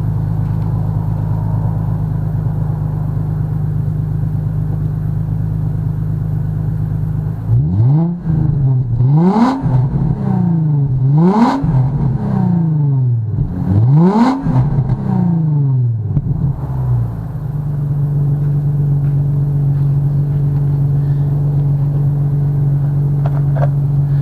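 2003 Infiniti G35 sedan's VQ35DE V6 running through an aftermarket Power Tech exhaust with its adjustable baffle fully closed. It idles steadily, is revved three times in quick succession about a third of the way in, rising and falling in pitch each time, then settles back to a steady idle.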